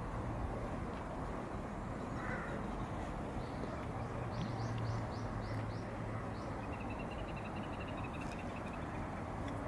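Birds calling over steady outdoor background noise with a low hum: a run of about six short, high, falling notes about four seconds in, then a fast even trill lasting about two seconds.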